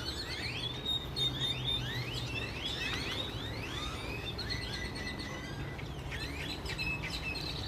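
Several small songbirds chirping, many short rising chirps overlapping, busiest in the first few seconds and thinning out toward the end, over a faint steady low hum.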